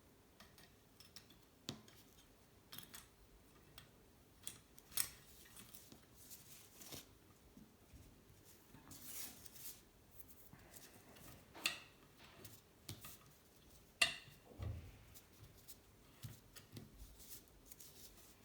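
Faint, scattered clicks and short scrapes of small hand tools working a scrap kettle heating element's metal tube, cutting and shaping it into model exhaust pipes. The sharpest click comes about 14 seconds in.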